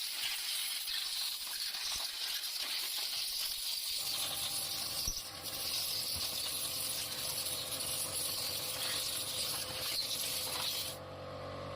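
A steady, loud hiss of escaping air or spray that cuts off suddenly near the end. A steady machine hum joins it about four seconds in and carries on after the hiss stops.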